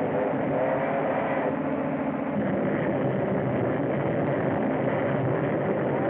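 Moving train on an early sound-film track: a steady running rumble and clatter with a few wavering tones through it, cut off above the treble.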